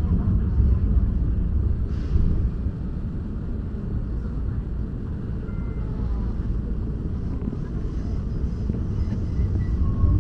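Enoshima Electric Railway train running, heard from inside the driver's cab: a steady low rumble of the wheels on the rails and the running gear, with a few brief faint high squeaks near the middle and end.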